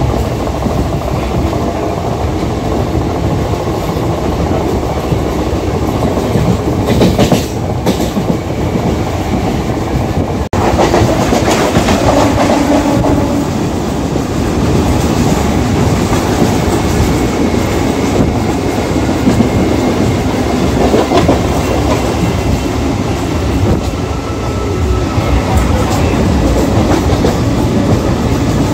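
Kolkata suburban EMU local train running, heard from its open doorway: a steady rumble of wheels on the rails with rushing air, louder from about ten seconds in.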